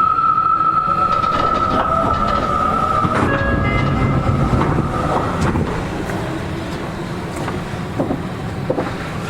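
Seibu 40000 series electric train heard from inside a car: the whine of its Toshiba VVVF inverter driving permanent-magnet synchronous motors holds one steady tone, shifts through several tones about three seconds in, and fades out about five seconds in. Wheel and rail rumble carries on, with rail-joint clicks near the end.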